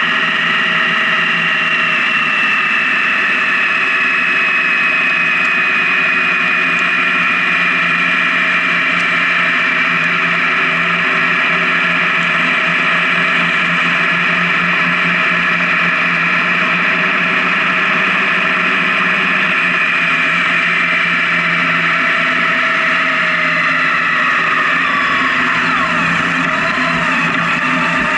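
Honda Gold Wing touring motorcycle engine running steadily at highway cruising speed, its note slowly dropping in pitch, then shifting and wavering near the end as the speed changes.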